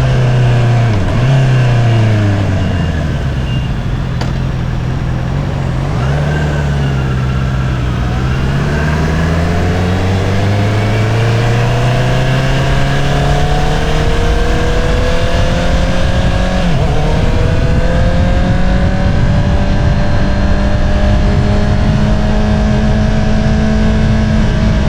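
2022 Honda CBR650R's inline-four engine through an Akrapovič single-outlet exhaust, heard from the rider's seat. The engine note falls off and dips in the first few seconds, then climbs steadily under acceleration, with a brief drop about two-thirds through as it shifts up a gear before rising again.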